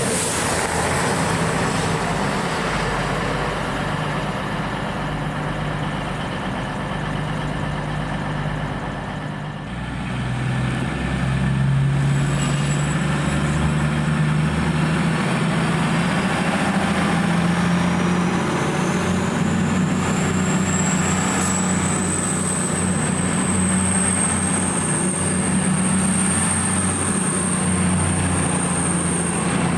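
Diesel train engine running steadily with a low drone, growing louder about a third of the way in, and a thin high whine that rises in pitch and then holds.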